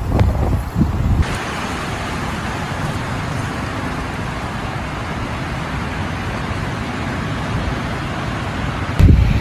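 Heavy rain falling steadily, a dense even hiss. In the first second or so, and again near the end, gusts of wind buffet the microphone with a low rumble.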